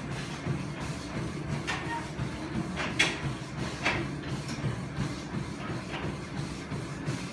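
Gym cardio machine running during a warm-up: a steady low mechanical hum with a few sharp clicks, the loudest about three seconds in.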